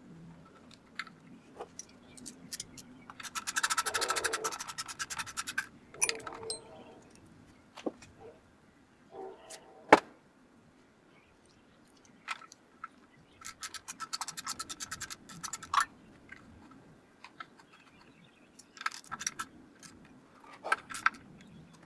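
Hand socket ratchet clicking in two quick runs while bolts are turned on an engine under assembly. Scattered clinks of metal tools come between the runs, with one sharp knock about ten seconds in.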